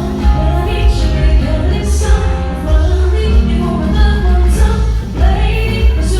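Loud live band music with singing over a heavy bass, heard from backstage.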